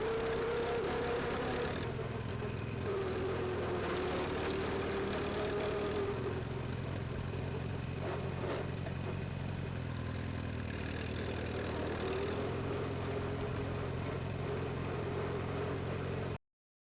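Farmall 340 tractor engine running steadily, with a wavering whine over the low engine note. The sound cuts off abruptly near the end.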